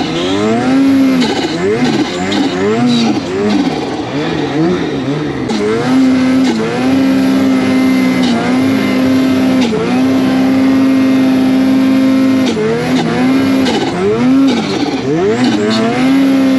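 Snowmobile engine revving hard, its pitch rising and falling over and over, held at steady high revs for several seconds in the middle, then blipped up and down again near the end.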